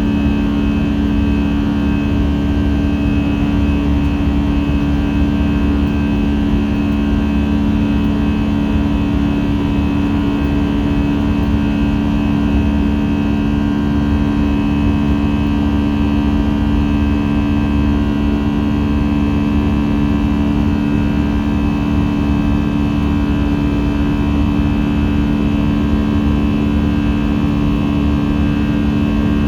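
Steady cabin noise inside an Airbus A319: the jet engines and airflow make an even drone, with two strong low hums held at a constant pitch.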